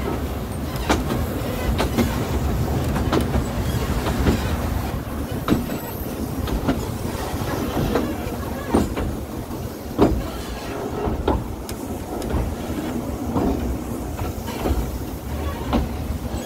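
Narrow-gauge railway carriage running along the track: a steady low rumble, with irregular sharp clicks and knocks from the wheels over the rails, about one a second.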